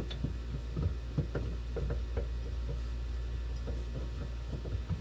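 Scattered light knocks and clicks of metal parts as the old manual shifter is worked loose and slid forward in its mounting bracket, over a steady low hum.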